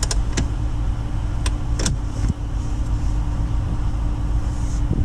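2021 Dodge Durango R/T's 5.7-litre Hemi V8 idling, a steady low hum heard inside the cabin, with a few sharp clicks in the first two seconds.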